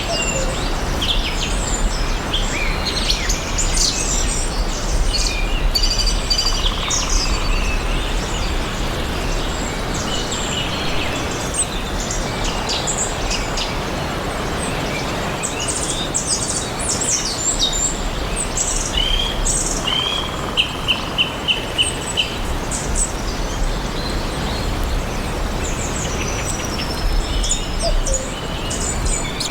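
Several birds chirping and singing over a steady background hiss. About twenty seconds in, one bird gives a quick run of about six short repeated notes.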